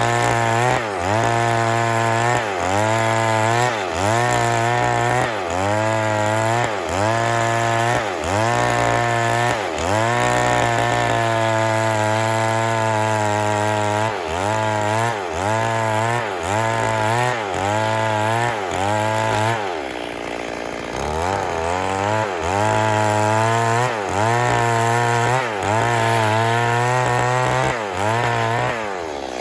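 Stihl MS 382 two-stroke chainsaw running at high revs, its pitch dipping and recovering about once a second. It holds steady for a few seconds near the middle, drops to a low idle briefly about two-thirds through, then revs again and falls away at the end.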